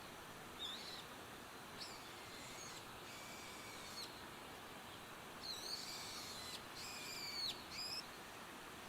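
A bird calling in a series of short, sliding chirps, a few early on and a cluster in the second half, over a faint steady outdoor hiss.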